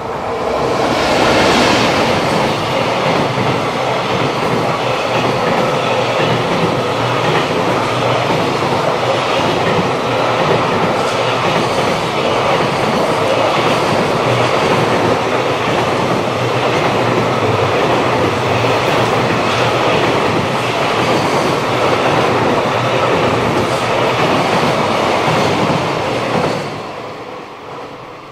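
JR Freight EF210 electric locomotive and its container wagons passing close by on rain-wet track: a loud, steady rush of wheels on rail with repeated clacks. The sound swells within the first two seconds, holds, then falls away sharply near the end as the last wagon goes by.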